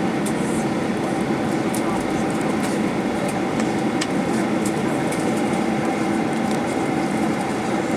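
Steady droning cabin noise inside a Boeing 737-800 on the ground after landing, with a constant hum holding a few fixed tones and scattered small clicks.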